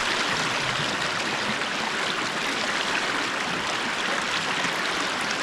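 South Fork American River rushing over rocks: a steady, fairly loud flow of water.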